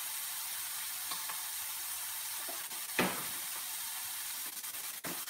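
Chopped onion, garlic and ginger sizzling steadily in oil in a frying pan over a gas flame, with a single sharp knock about three seconds in and a few light clicks near the end.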